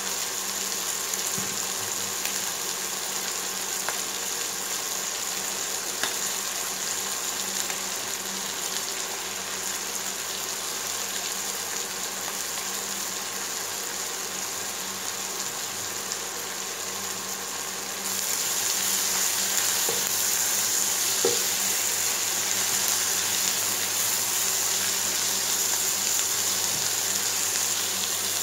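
Diced chicken breast, onion and peppers frying in oil in a frying pan, with a steady sizzle. The sizzle gets louder about two-thirds of the way through.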